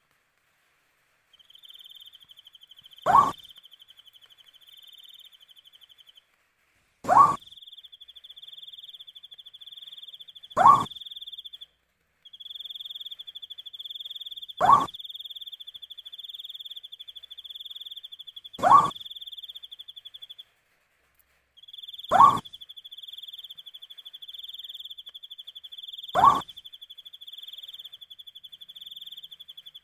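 An owl gives a short call sliding upward in pitch, seven times at an even pace of about one every four seconds; these calls are the loudest sound. Under them runs a steady, fast-pulsing high cricket trill that stops briefly a few times.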